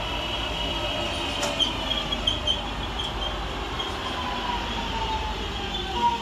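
Class 323 electric multiple unit pair moving away along the platform: rumble of wheels on rail with a motor whine that slowly drops in pitch, and a few short high wheel squeaks about one and a half to two and a half seconds in.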